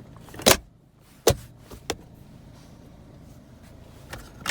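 Plastic storage-compartment lid in a car's cabin being handled: two sharp knocks about half a second and a second and a quarter in, then a fainter click, and light clicks near the end.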